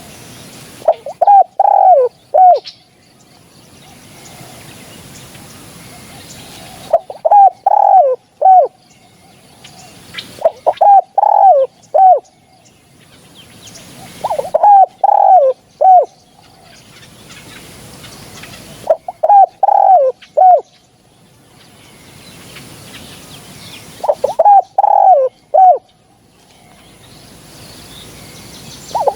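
Spotted dove cooing: short phrases of a few loud, falling coo notes, repeated about every four to five seconds, with a hiss between phrases.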